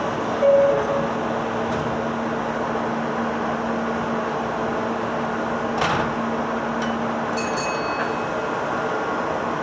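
Meitetsu 6000 series train, heard as a steady hum over an even noise, with a short thump about half a second in, a click near six seconds and a brief high ringing tone near eight seconds.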